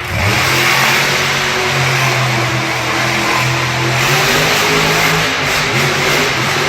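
A loud vehicle engine running hard at fairly steady revs.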